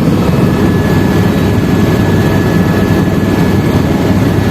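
Helicopter in flight: loud, steady engine and rotor noise with a fast low flutter and a faint steady high whine.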